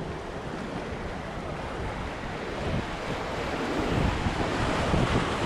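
Rushing whitewater through a rapid, with wind buffeting the microphone; the water noise grows louder over the last couple of seconds.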